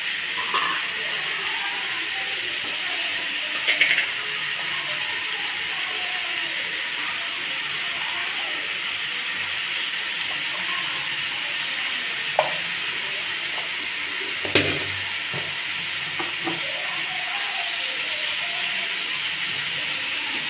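Chicken pieces sizzling in a metal kadai on the stove, a steady hiss, with a few sharp knocks now and then.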